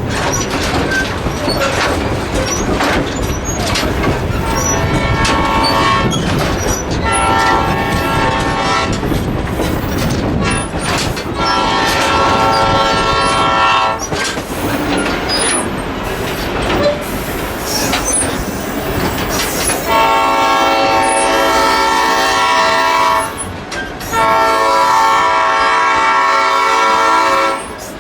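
Train running with a steady rumble and wheel clatter on the rails, while the locomotive horn sounds five blasts: a short one, then longer ones, the last two the longest.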